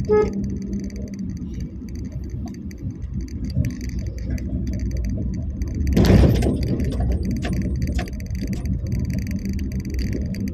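Car cabin noise while driving: steady engine and road rumble with a low hum and light rattles, and a louder bump about six seconds in.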